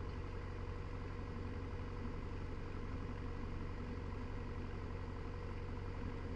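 Cessna 172's piston engine and propeller idling steadily, holding before takeoff.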